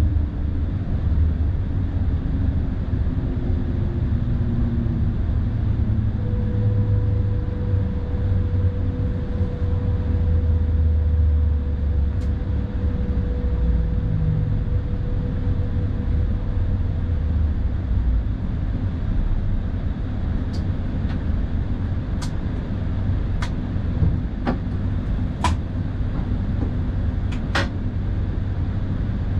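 Electric tilting train (SBB ICN) running steadily, a continuous low rumble of wheels and drive, with a thin steady whine from about six to seventeen seconds in. Near the end, a run of about seven sharp clicks.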